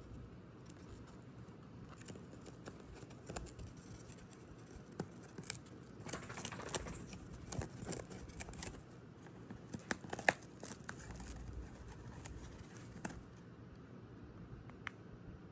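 Indian ringneck parrot's beak snipping and tearing at cardboard: an irregular scatter of sharp clicks and crunches, busiest in the middle.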